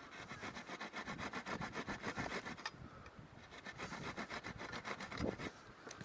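Hand saw cutting through wood in quick, even back-and-forth strokes, with a short pause about halfway through before the sawing resumes.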